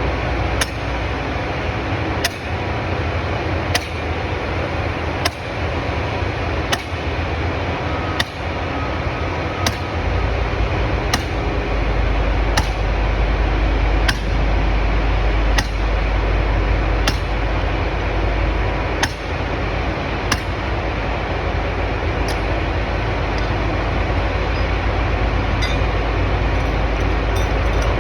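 A 12 lb sledgehammer striking steel form pins with sharp metallic clinks, one blow about every second and a half, the blows thinning out and fading over the last few seconds. A steady loud machine rumble runs underneath.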